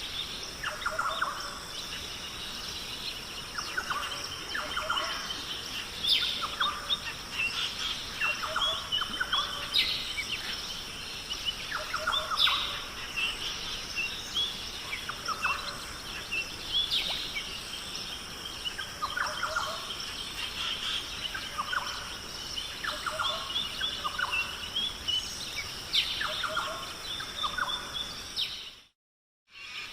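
Birds calling repeatedly, short calls every second or two, over a steady high-pitched background hum. The sound cuts out briefly to silence near the end, then resumes.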